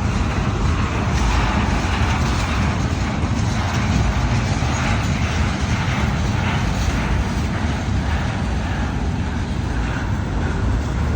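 A train rolling by: a loud, steady noise, heaviest in the low end, that keeps on without a break.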